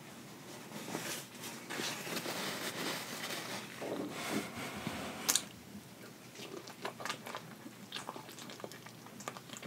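Close-miked eating sounds: wet chewing and biting on sauce-coated lobster, with crackly mouth clicks and one sharp click about five seconds in.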